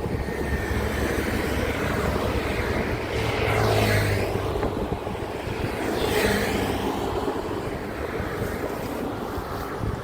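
Highway traffic: a steady engine and tyre rumble, with two vehicles passing close by, one about four seconds in and one about six seconds in.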